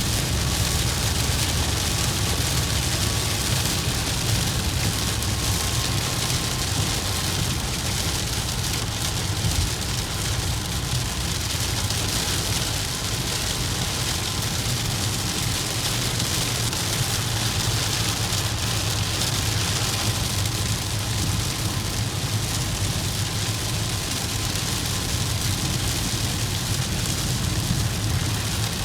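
Heavy rain falling on a moving vehicle, a steady hiss over a constant low rumble of road and engine noise.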